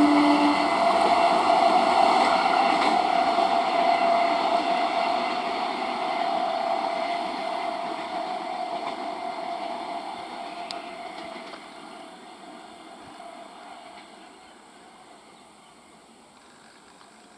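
A BEML-built electric multiple unit train running past, its sound fading steadily into the distance over about fifteen seconds until only faint background remains.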